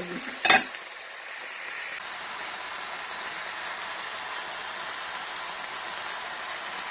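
Stir-fried noodles sizzling steadily in a hot electric skillet, a soft even hiss that comes up about two seconds in. A short tap sounds about half a second in.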